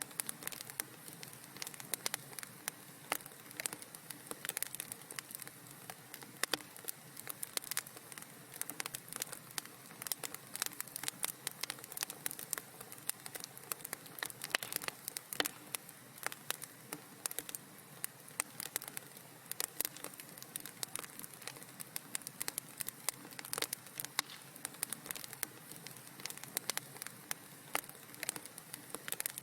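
Wood fire crackling in a fireplace: a constant scatter of small irregular pops and snaps over a soft steady hiss.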